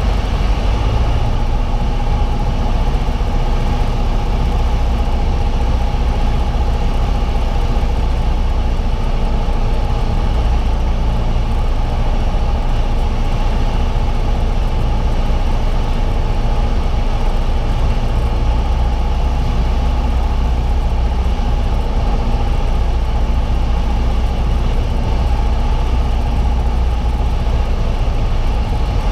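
Piper Cherokee single-engine light aircraft's piston engine and propeller droning steadily at a constant pitch, with a rushing noise mixed in.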